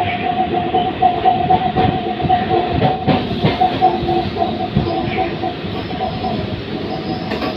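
Electric suburban local train (EMU) running at speed, heard from its open doorway: wheels knocking over rail joints under a steady high hum.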